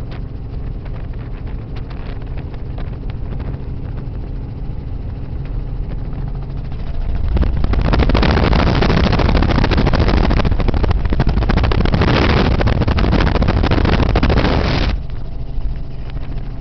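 Steady drone of a helicopter's engine and rotor heard from inside the cabin. About halfway through, a much louder rushing noise sweeps over it for about seven seconds, then cuts off suddenly.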